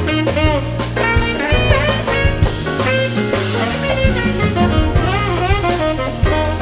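Big-band jazz: a saxophone solo line bending and sliding in pitch, over walking bass, drum kit and horn backing.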